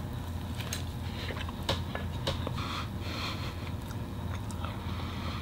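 A man chewing a mouthful of hamburger, with scattered small wet clicks and smacks, over a steady low hum.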